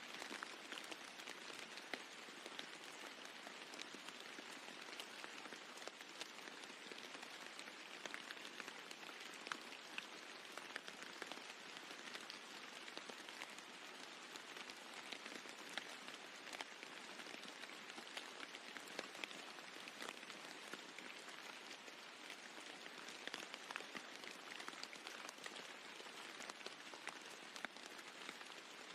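Steady rain falling on a roof: an even hiss of rain with many small, sharp drop hits scattered through it.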